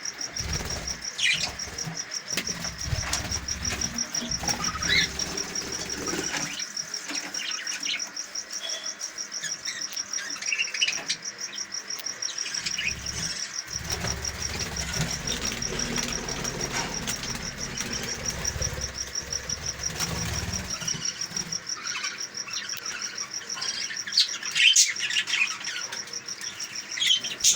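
Budgerigars chirping and chattering in short scattered calls over a steady, rapid high-pitched trill.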